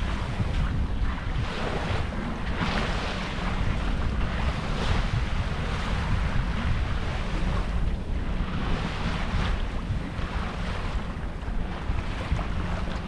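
Wind buffeting the microphone and water rushing past a sailboat under way: a steady low rumble with a hissing wash that swells and eases in gusts.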